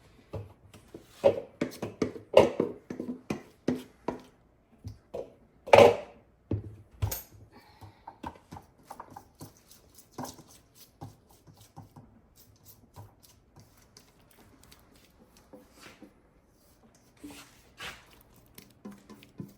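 Irregular clinks and knocks of a spoon against a metal muffin tin and mixing bowl as batter is spooned into the cups. The knocking is busiest in the first half, with the loudest knock about six seconds in, then thins out to scattered taps.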